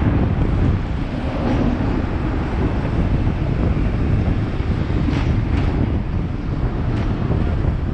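Hong Kong double-decker tram running, a steady low rumble of the car on its rails with wind buffeting the microphone. A few short sharp clacks sound about five seconds in and again near the end.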